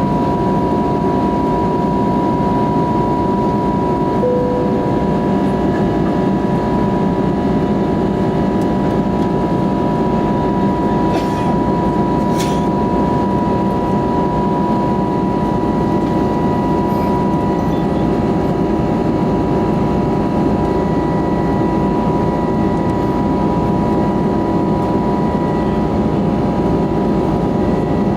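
Steady cabin noise inside an Airbus A320neo in flight: engine and airflow noise with a constant whine from the CFM LEAP-1A engines.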